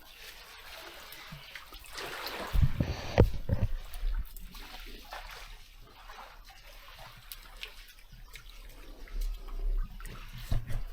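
Shallow seawater splashing and trickling, with a few low thumps about two to three seconds in.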